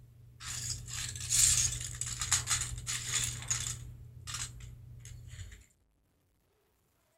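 Small plastic Lego pieces clattering and rattling together as they are sorted through, with many quick clicks over a few seconds. The sound then cuts off abruptly about five and a half seconds in.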